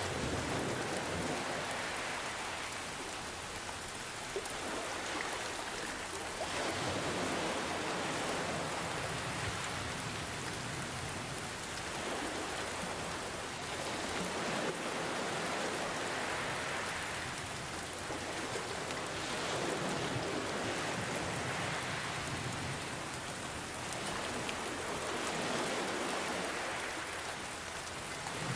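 Steady rain with ocean waves washing in, the sound swelling and easing every few seconds.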